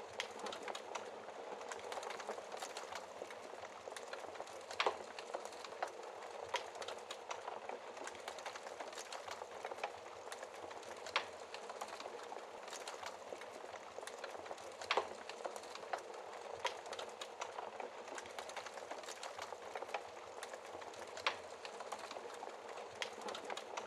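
Wood fire in a fireplace crackling, a steady low hiss with sharp pops every second or so, a few of them louder.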